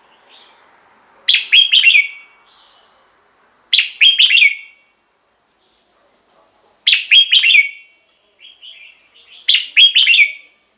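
Red-whiskered bulbul singing: four short, loud phrases of quick chirping notes, one every two to three seconds, with a few faint short calls before the last phrase.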